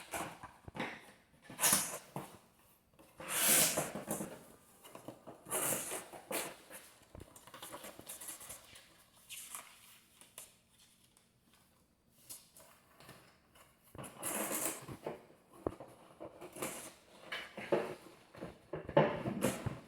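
Packaging being handled during an unboxing: irregular bursts of rustling and scraping with pauses between them, and a few light clicks and knocks.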